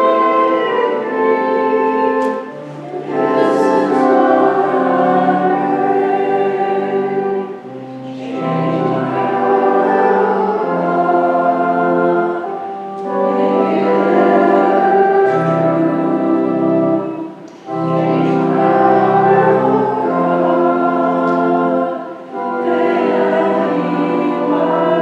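A hymn sung by a group of voices with organ accompaniment, in long held phrases with short breaks about every five seconds.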